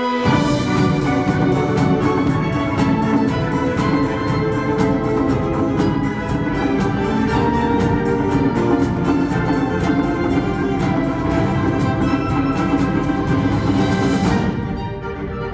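Wind ensemble playing a loud full passage, with quick, even percussion strokes running under the winds and brass. It enters sharply at the start and thins out about a second before the end.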